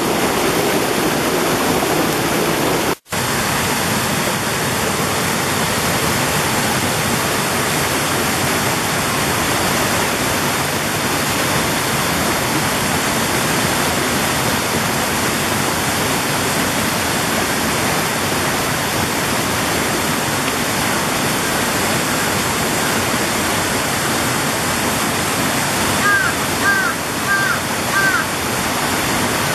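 Mountain valley stream rushing steadily over rocks, a constant even wash of water noise. The sound cuts out for an instant about three seconds in, and four short high chirps come near the end.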